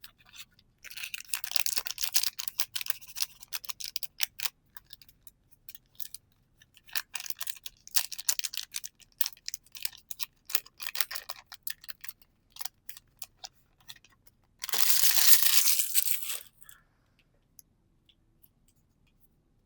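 Pokémon trading-card packs and packaging being handled, crinkling and rustling with small clicks in several spells. About fifteen seconds in comes a louder, continuous rustle lasting about two seconds.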